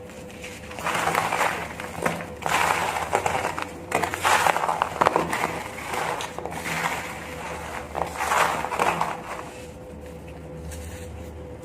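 Clumps of dry sand being crushed and crumbling, in about five gritty, crunchy bursts separated by short pauses.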